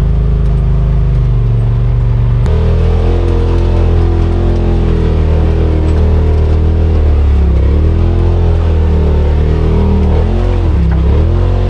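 Side-by-side UTV engine running loud under throttle. Its pitch holds steady, then dips and climbs back several times in the second half as the revs drop and pick up again.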